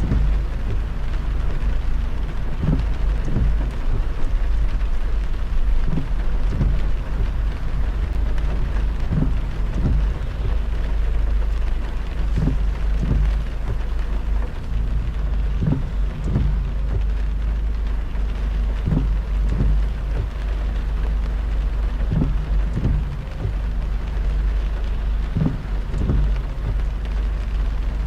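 Heavy rain on a moving car with a steady low road rumble from tyres on the wet road. Pairs of short dull knocks, about half a second apart, come back roughly every three seconds.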